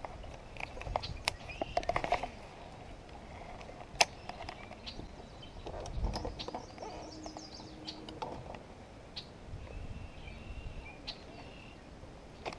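A bird calling in low hooting notes, over scattered sharp clicks and knocks.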